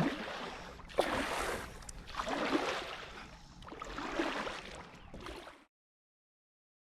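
Kayak paddle strokes splashing in pond water, one swell of splashing about every second and a half. The sound stops abruptly about five and a half seconds in, leaving silence.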